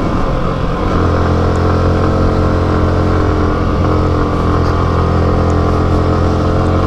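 Motorcycle engine running at a steady speed while being ridden, its pitch holding level.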